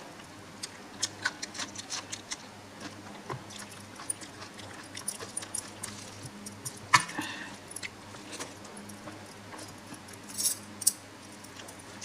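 Close-up eating sounds: chewing and wet mouth clicks coming in irregular short bursts, with one louder click that rings briefly about seven seconds in.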